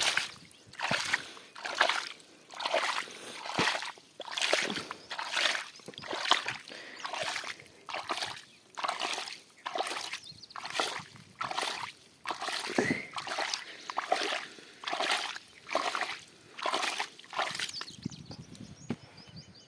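Standing water being scooped up and thrown out of a waterlogged field, a splash about once a second in a steady rhythm, stopping near the end.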